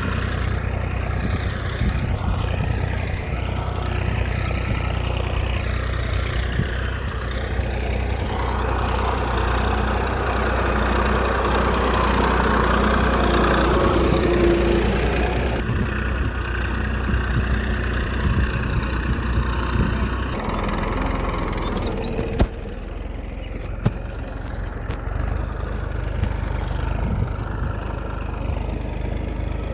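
Small mini-tractor engine running steadily at idle, with a few abrupt changes where the recording is cut.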